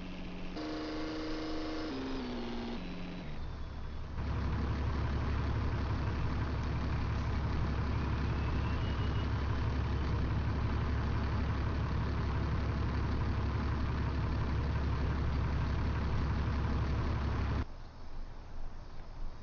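A short run of falling electronic tones, then a truck engine running steadily at idle. Near the end the engine sound drops away suddenly.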